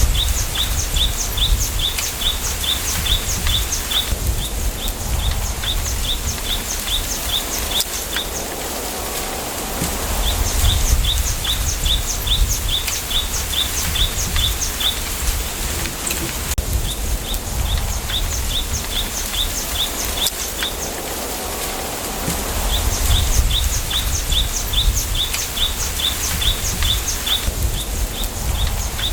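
Wind through a bamboo grove, a steady hiss with a low gusty rumble that swells now and then. Over it a bird sings bursts of rapid, high, repeated notes, about four a second for three to four seconds at a time, several times over.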